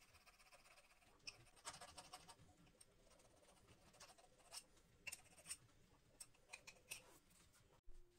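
Faint scratching and scattered light clicks and taps, with a short run of scraping about two seconds in.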